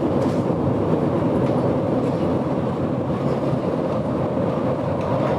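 GoldenPass Belle Époque train running, heard from inside a carriage: a steady rumble of wheels on rail with a few faint clicks.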